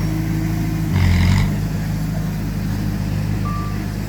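Diesel engine of heavy earthmoving machinery running steadily, with a brief louder surge about a second in. A short high beep sounds near the end.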